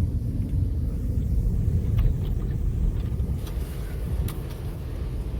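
Car moving, heard from inside the cabin: a steady low rumble of road and engine noise, with a few faint clicks.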